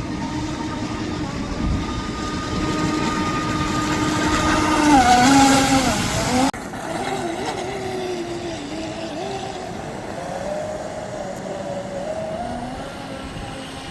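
Motor of a radio-controlled boat on an 8S battery pack, running with a pitched whine that holds steady, then dips and wavers as the throttle changes. It grows louder to a peak about five seconds in and drops off suddenly about six and a half seconds in, then carries on more quietly with a wavering pitch.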